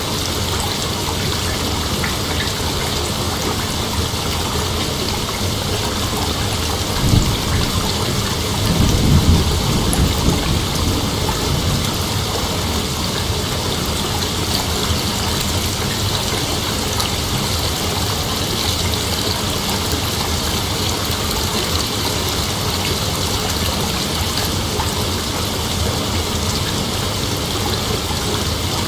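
Dense, steady chorus of night insects, with a brief low rumble about seven seconds in and again around nine to ten seconds.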